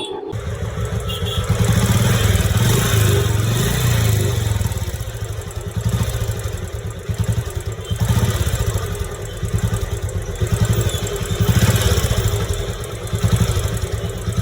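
Royal Enfield motorcycle engine running, swelling and easing several times as it is revved, with a mechanical noise that the mechanic puts down to worn engine bearings, with no crank noise.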